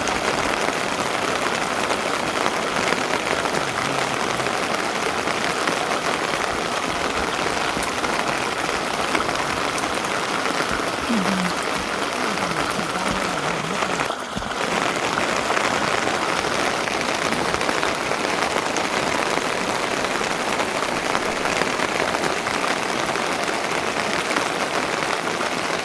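Steady rain pattering on a surface, with a brief dip in the sound about fourteen seconds in.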